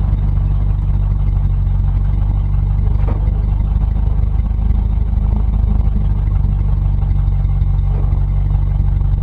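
Ford 351 Windsor 5.8-litre V8 running steadily after a carburetor rebuild, a loud, even low drone with no change in pace.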